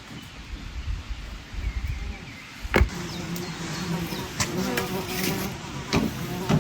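A flying insect buzzing close by, starting about three seconds in just after a sharp knock, with a few sharp clicks on top. Before it there is a low rumble with faint bird chirps.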